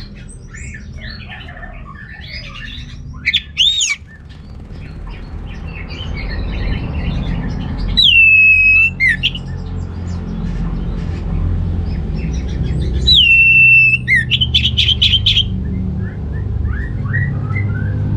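Orange-headed thrush singing vigorously: a varied twittering song with two loud, drawn-out whistles that drop in pitch, the second followed by a quick rattling trill.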